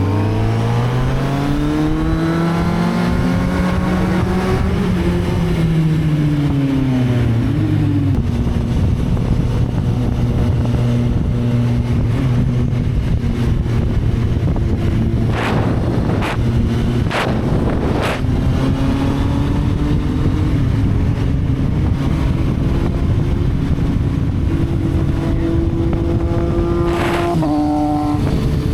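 Motorcycle engine revving up over the first few seconds, its pitch rising then falling back about eight seconds in, then running at a steady pitch. Several short, sharp noises come about halfway through and again near the end.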